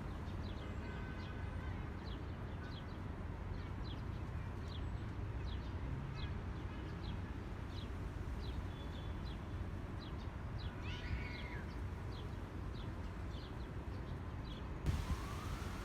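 Wind buffeting the microphone with a steady low rumble, while a small bird chirps over it in short, high, repeated chirps about once or twice a second, with a brief burst of fuller calls about two-thirds of the way through.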